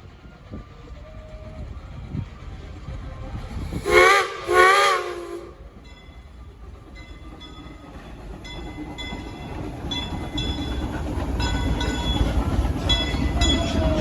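Steam locomotive whistle sounding two short blasts about four seconds in, then the train running, with rhythmic clicking of the wheels and running gear growing louder toward the end.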